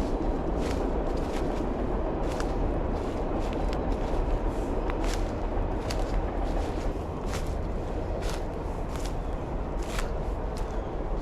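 Footsteps crunching through brush and leaves on a riverside path, irregular steps about once or twice a second, over a steady low rushing noise.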